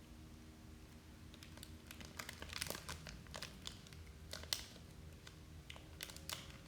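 Plastic candy bar wrapper being crinkled and torn open, irregular sharp crackles starting about a second in, over a low steady hum.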